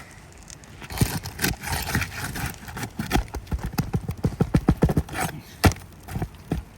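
Hard knocks and taps on an asphalt shingle roof as sealed shingles are worked and pried loose, with a quick run of taps a little past the middle.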